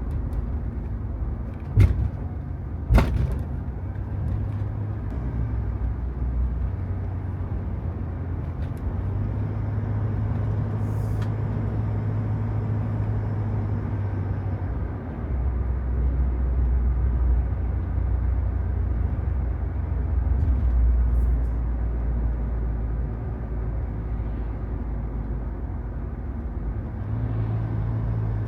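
Inside the cabin of a Toyota HiAce van on the move: a steady low engine and road rumble whose pitch and level shift now and then, heard with the engine bay's new vibration-damping and insulation in place. Two sharp clicks come about 2 and 3 seconds in.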